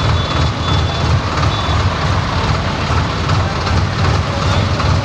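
Tractor diesel engines running with a steady, pulsing low rumble, and a couple of short high beeps in the first two seconds.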